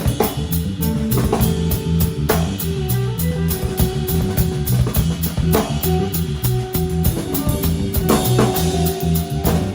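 A band playing: a guitar and a bass guitar holding sustained notes over a drum kit keeping a steady beat, with constant cymbal hits.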